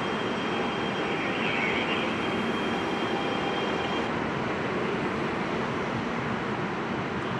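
High-speed electric passenger train pulling out along the platform, a steady rushing noise. A faint high tone stops about four seconds in.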